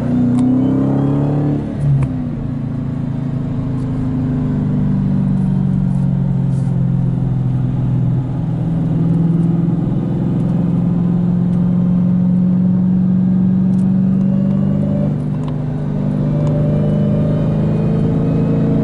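Dodge Challenger Hellcat's supercharged 6.2-litre V8 running through an aftermarket 3-inch dual stainless-steel exhaust. It comes off a brief rev in the first two seconds, holds a steady idle, and the revs climb slightly again near the end.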